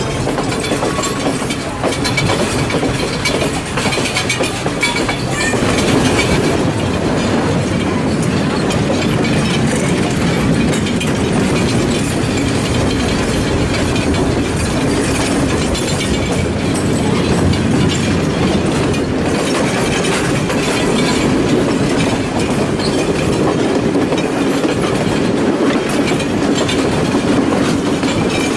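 Passenger train running on the line, heard from aboard: a steady rumble of the carriage with wheels clattering over the rail joints.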